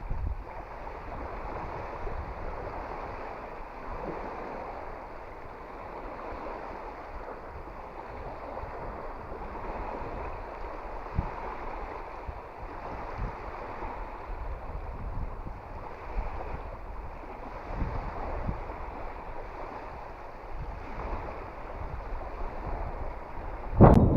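Strong wind gusting over the microphone with a low rumble, mixed with choppy water lapping and splashing at the bank, rising and falling steadily.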